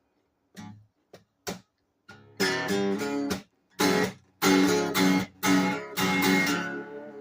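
Acoustic guitar opening a blues song: a few short, quiet plucked notes, then loud strummed chords from about two seconds in that ring and fade near the end.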